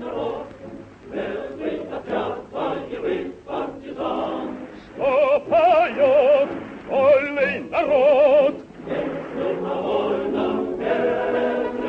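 Operetta singing with chorus and music: voices sing short phrases, then in the middle a solo voice holds several long notes with wide vibrato. Narrow, old film soundtrack.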